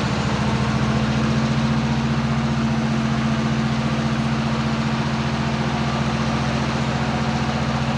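Diesel locomotive engine running steadily close by, a loud, even low drone with a fast, regular throb.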